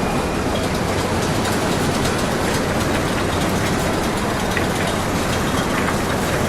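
Steady low mechanical rumble with a constant hum underneath, the ambience of a large running vehicle or engine.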